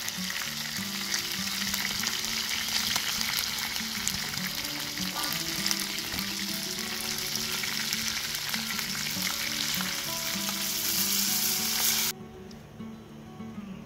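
Chicken pieces and sliced onions sizzling loudly in hot oil in a wide pan, with a metal skimmer stirring through them; the sizzle cuts off suddenly about twelve seconds in.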